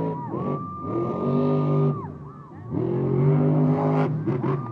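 Monster truck engine revving hard twice, each rev climbing in pitch, holding, then dropping away, with a high whine over the engine note.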